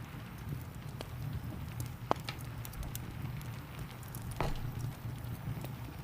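Wood fire crackling in a fireplace: scattered sharp pops and snaps, the loudest about two seconds in, over a low steady rumble.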